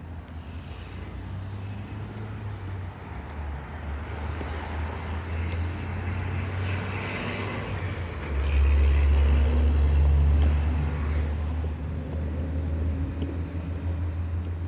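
Long Island Rail Road train passing on continuous welded rail: a steady low rumble with a rushing wheel-on-rail noise that builds, is loudest from about eight to eleven seconds in, then eases off. There is no rhythmic clack of rail joints.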